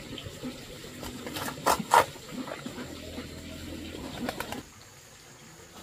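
Low cooing bird calls with several sharp knocks, the loudest two close together about two seconds in; the sound drops away abruptly a little after four and a half seconds.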